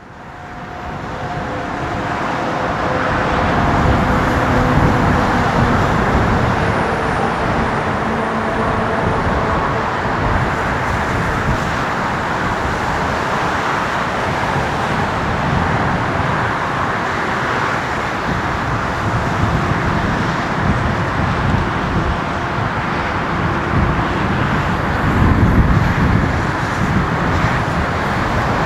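Jet engines of a Boeing 787-9 airliner, a loud, steady rumble that fades in over the first few seconds, with faint whistling tones above it.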